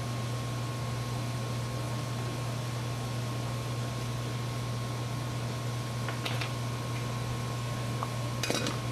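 Steady low hum and hiss of a small fan-driven machine, with a thin high whine held throughout. Two short rustling clicks break in, about six seconds in and again near the end.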